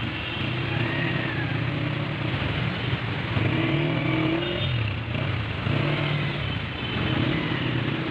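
Car engines running and revving among road traffic, their pitch rising and falling.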